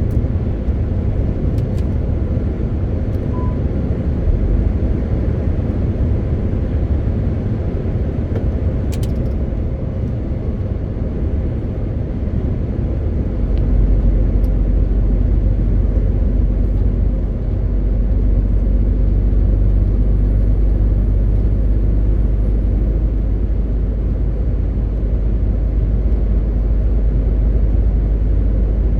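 MAN TGX 18.520 truck's six-cylinder diesel engine running with road noise while driving, a steady low rumble. The deep rumble grows louder about halfway through, with a few faint clicks and a faint high whistle on top.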